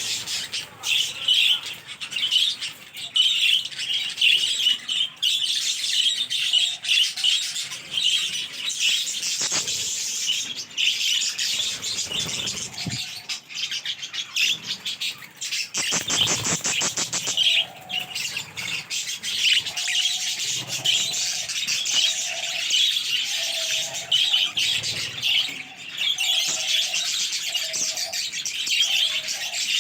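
A colony of budgerigars chattering and chirping continuously, many birds at once. In the second half a lower call repeats about once a second over the chatter.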